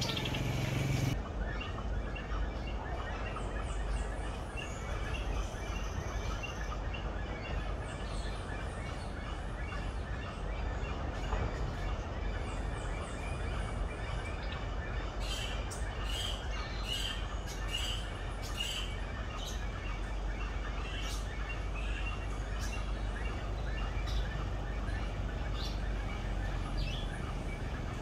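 Birds chirping, many short high calls, with a denser run of sharp chirps in the second half, over a steady low rumble.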